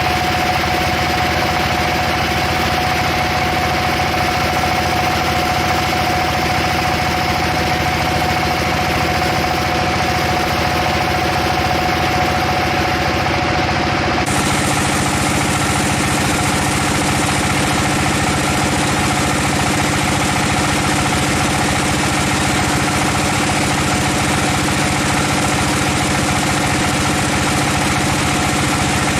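Sawmill machinery running steadily with a constant hum. About halfway through, the hum abruptly changes to a different set of tones.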